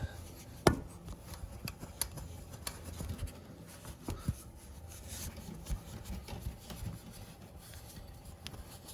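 A scouring pad rubbing rust off a chrome wire-spoked motorcycle rim: irregular scratchy scrubbing strokes with scattered small clicks and knocks, the sharpest one a little under a second in.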